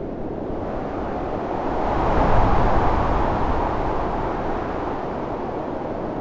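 Storm wind blowing with no pitched tone, swelling into a stronger gust about two seconds in and easing off again.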